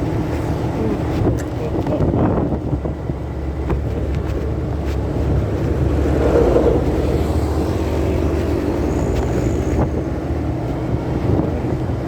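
Motorcycle riding noise recorded by a phone in a pocket: a steady, muffled engine drone and wind rush, with a few faint clicks.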